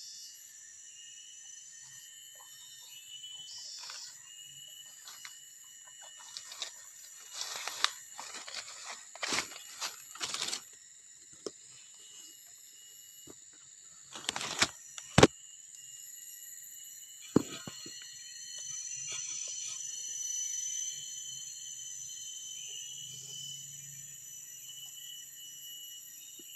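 Forest ambience: a steady chorus of insects with bird chirps over it. A series of sharp clicks and knocks comes through the middle, the loudest about halfway in.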